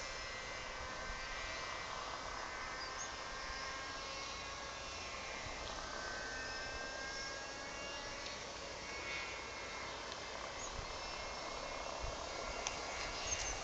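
A steady, distant engine drone with faint tones that slowly bend in pitch.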